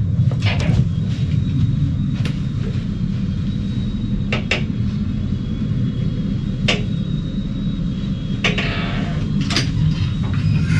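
Steady low rumble of a cruise ship cabin's background hum, with a faint thin high tone over it. About half a dozen short clicks and knocks, typical of cabin doors and cupboards being handled, are scattered through it.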